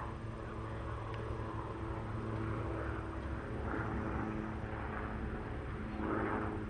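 A motor vehicle's engine running steadily, a constant low hum with a few steady tones, and some rushing noise that swells and fades a few times.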